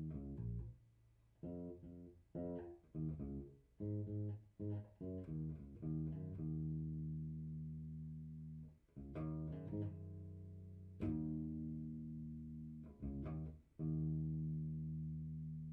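Electric bass guitar, tuned down a half step, played through a Fender Rumble 100 V3 bass combo amp. It starts with a run of short plucked notes, then moves to long notes left ringing a few seconds apart, the last one fading out.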